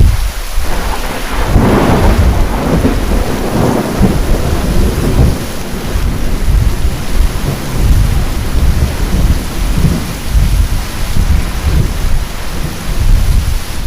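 Heavy rain with a long peal of thunder: a crackling clap in the first few seconds, then deep rumbling that rolls on under the steady rain.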